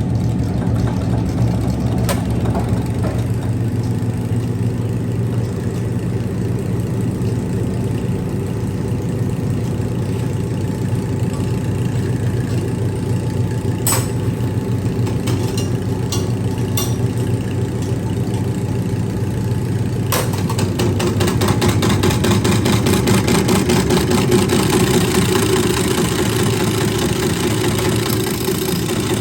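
Tractor diesel engine idling with a steady clatter, then running faster and louder about twenty seconds in. A few sharp clicks are heard along the way.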